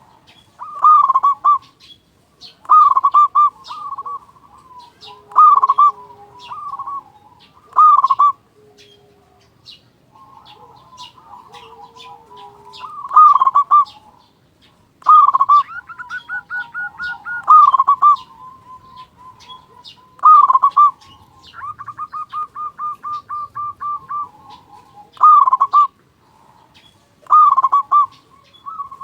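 Zebra dove (perkutut) cooing repeatedly: short loud coo phrases every second or two, with two longer rapid stuttering trills partway through. Faint high chirping runs underneath.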